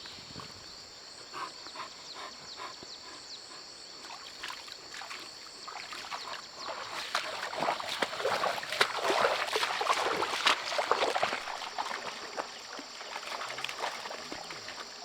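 Rustling and splashing of movement through wet grass and shallow water, a loose patter of small clicks that grows denser and louder about 7 to 11 seconds in, over a steady high-pitched drone.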